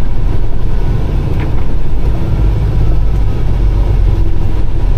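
Peterbilt 389 semi truck's diesel engine and tyre noise heard from inside the cab while driving at a steady speed: a loud, even, low rumble.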